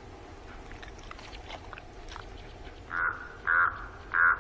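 Ravens calling: three short, harsh caws in quick succession, starting about three seconds in.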